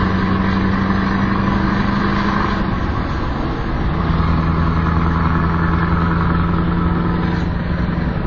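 V8 car engine running at steady revs under way. About three seconds in the pitch drops away, and it settles at a slightly lower steady note for the rest.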